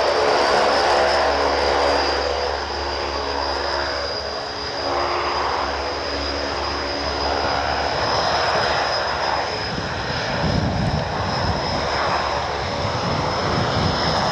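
Jet2 airliner's jet engines at take-off power as it climbs away, a continuous engine noise with a steady high whine above it.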